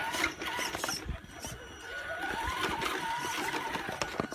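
Electric RC car with tracks running over wet ground: a motor whine that wavers and glides up and down with the throttle, over splashing and scattered clicks.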